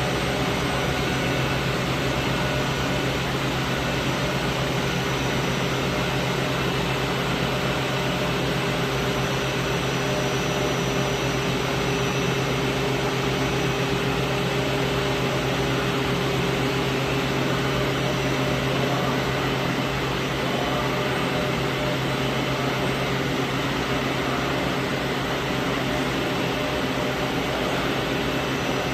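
Five-axis CNC machine running: a steady mechanical hum with a few held tones, unchanging throughout.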